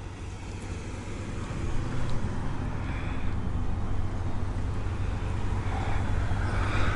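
A car driving: steady engine and road noise, growing gradually louder.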